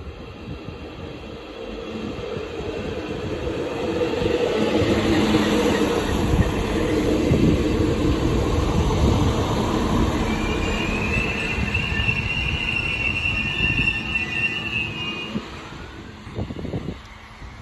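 A passenger train running past along the platform. Its rumble of wheels on rail grows to a peak about halfway through, then fades, with a high, steady metallic squeal for several seconds in the second half. A short knock near the end.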